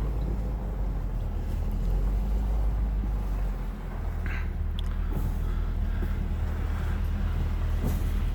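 Car engine running at low speed, a steady low rumble whose note changes slightly about four seconds in, with a few faint clicks.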